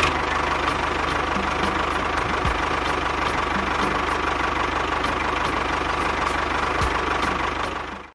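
An engine running steadily with a regular light knocking, about three ticks a second; it fades out near the end.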